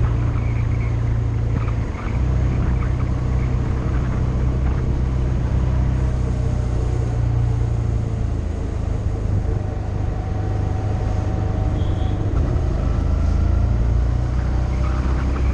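Motorcycle engine running under way on a road, with wind and road noise. The engine note briefly drops about two seconds in.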